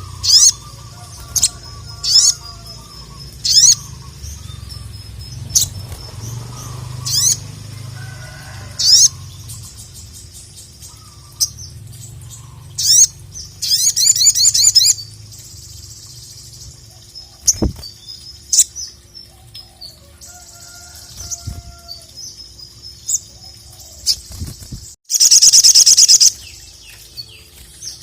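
Sogok ontong (sogon), a small nectar-feeding songbird, singing: sharp high chirps every second or two, a fast rattling trill about halfway through and a louder, longer fast trill near the end.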